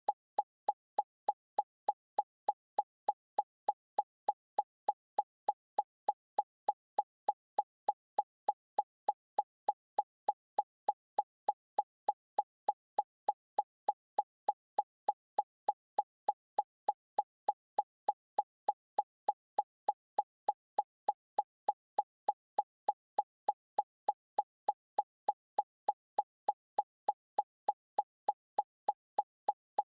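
A short pitched plop repeating at a perfectly even pace, about three times a second, each one identical: a looped electronic sound effect.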